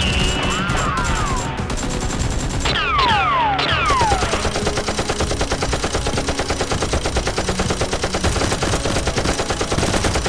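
Rapid automatic gunfire sound effect: a few falling whistling tones in the first four seconds, then a fast, even stream of shots that keeps going.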